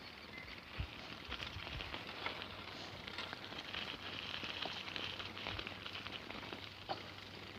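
Bicycle riding over a dirt trail: a steady crackling crunch of tyres on loose dirt and gravel, with scattered clicks and rattles.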